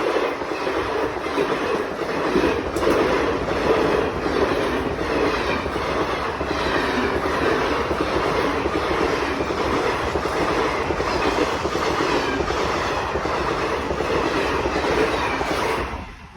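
Punjab Mail express train running at speed, its wheels clattering over the rail joints in a steady run of clickety-clack; the sound drops away sharply near the end.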